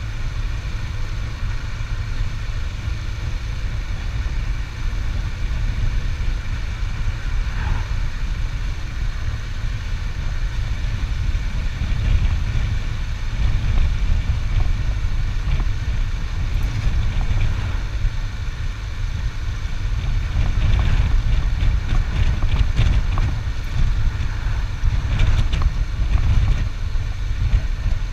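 Motorcycle engine running steadily while riding, with strong wind rumble on the microphone.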